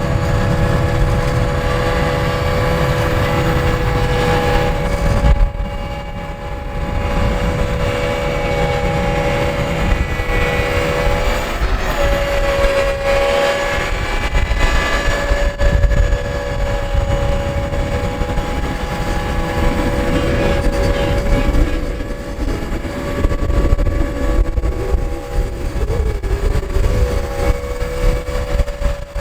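Scania R580's V8 diesel engine running steadily, a low rumble under a steady whine. It dips briefly about six seconds in, and the pitch wavers slightly around twelve seconds in.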